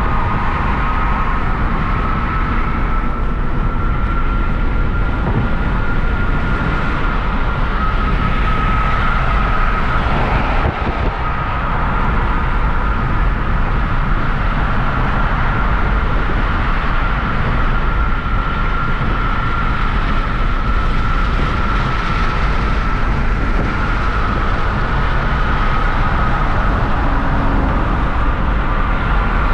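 Hyundai Genesis Coupe 3.8's V6 running under steady cruising, its engine rumble and road noise continuous, with a steady high whine over them.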